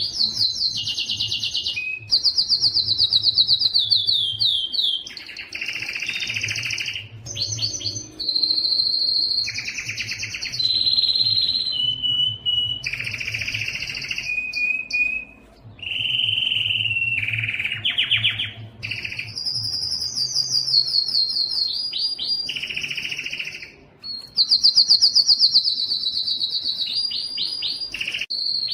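Yellow domestic canary singing a continuous song of fast trills and rolls, one phrase following another with only brief breaks.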